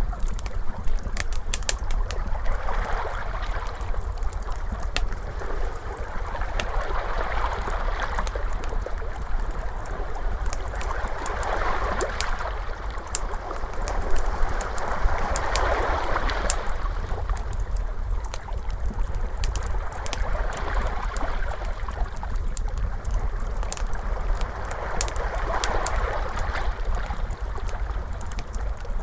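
Crackling fire with many sharp pops and snaps, over ocean waves washing in and out and swelling every four seconds or so, with a steady low rumble underneath.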